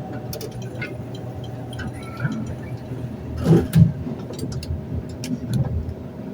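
Elevator car moving in its shaft, running with a steady low drone and scattered rattles and clicks. Two loud knocks come about three and a half seconds in.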